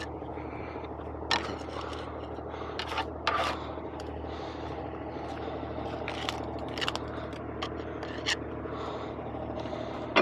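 Diesel truck engine idling steadily, with a scatter of sharp clicks and short scrapes over it.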